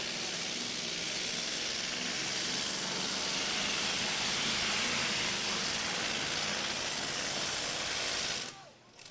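A pulling vehicle's engine running hard, heard as a loud, even rush of noise with a strong hiss. The sound drops out abruptly near the end.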